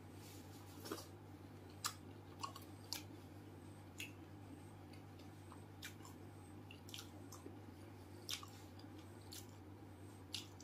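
Crisp pani puri shells crackling and crunching as they are bitten and chewed, in sharp irregular cracks about a dozen times, over a steady low hum.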